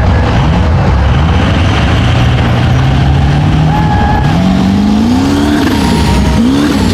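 Mega truck engine running hard and revving: its pitch climbs steadily over the first few seconds, then rises and falls several times in the second half, over a heavy low rumble.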